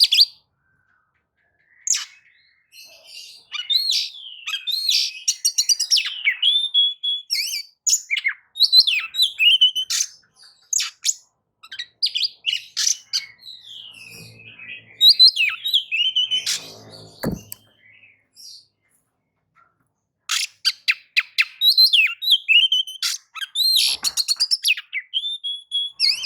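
Oriental magpie-robin (kacer) singing a fast, varied run of whistles and chirps, with a short pause about two-thirds of the way through. A low buzzing rasp sounds briefly in the middle.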